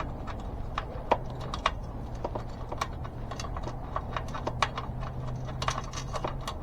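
Irregular light clicks and taps, several a second and uneven, from spokes and small parts being handled and worked out of a bicycle wheel's hub and rim.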